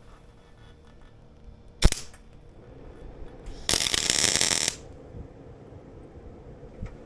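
A single sharp knock, then a short welding bead of about one second: an arc crackling and spitting as a bolt is tack-welded onto the steel loader tube.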